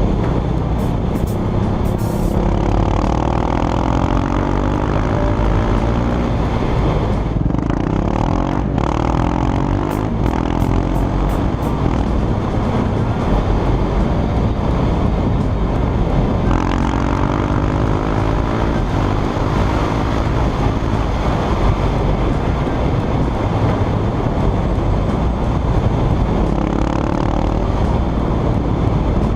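KTM 690 Duke's single-cylinder engine running through an Akrapovic full-system titanium exhaust. It holds a steady idle, with rises and falls in pitch a few times as the throttle is blipped.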